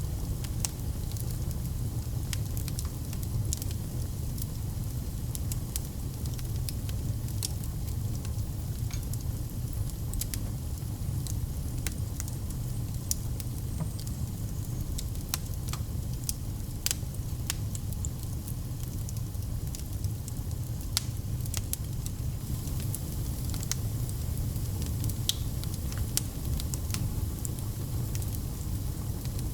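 Wood fire crackling in a fireplace: many irregular sharp pops and crackles over a steady low rumble.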